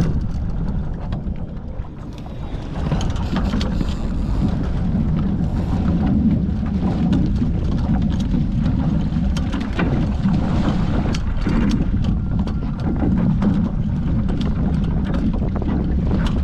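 Wind rumbling on the microphone while water rushes along a Hobie 14 catamaran's hulls under sail, with frequent small slaps and ticks of spray and chop. The sound dips briefly about two seconds in.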